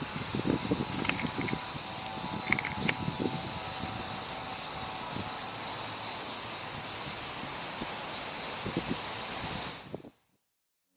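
A steady, high-pitched insect chorus that fades out quickly near the end.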